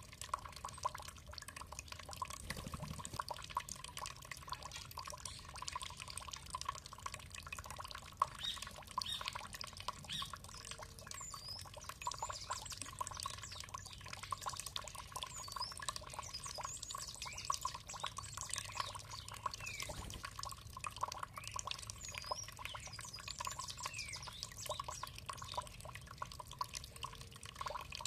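Water trickling and dripping in a steady patter, with small songbirds giving short high chirps over it, most of them in the middle stretch.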